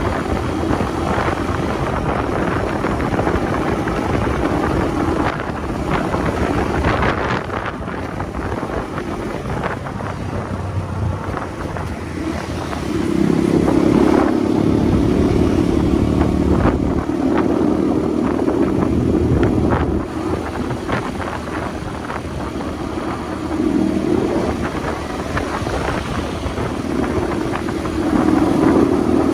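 Motorcycle engine running under way with wind and road noise; the engine note grows louder about halfway through and again near the end as the throttle opens.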